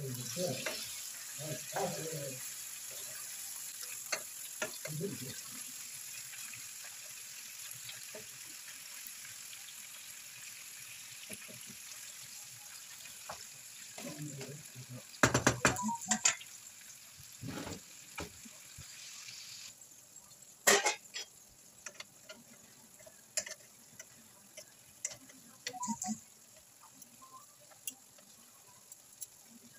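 Chicken pieces sizzling in a frying pan as they are stirred and turned, with a few sharp knocks of the utensil against the pan. The sizzle drops away about two-thirds of the way through.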